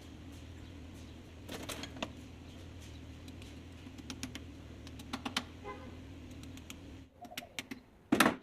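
Light scattered clicks and taps of hand work on a car's inside door handle parts, over a steady low background hum, with one louder short clattering burst near the end.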